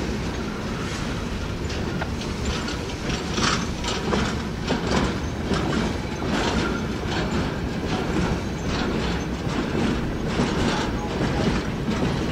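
Freight train of loaded flatcars rolling past at a grade crossing: a steady low rumble with wheels clicking and clattering over the rails, with no locomotive sound.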